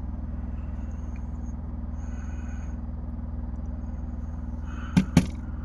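Steady low drone of an electric fan heater running at 1,000 to 1,500 watts, with two sharp clicks close together about five seconds in.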